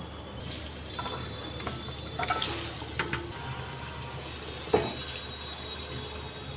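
Marinated chicken sizzling as it goes into hot mustard oil in a metal pot: a steady frying hiss that starts almost at once. A metal ladle clinks and scrapes against the pot a few times, the loudest a knock about five seconds in.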